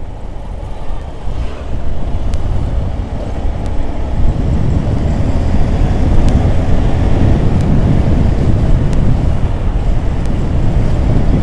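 Motorcycle riding noise: wind rushing over the microphone mixed with engine and road rumble, getting louder about two seconds in and again about four seconds in.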